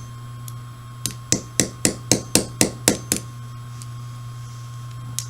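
Light hammer taps seating a pin in a Smith & Wesson M&P 45 pistol frame: about nine quick, even taps, about four a second, that stop after about two seconds, driving the part in until it sits flush.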